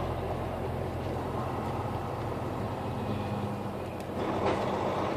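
Steady low engine drone and road noise heard inside a moving truck's cab, with a brief louder rush about four and a half seconds in.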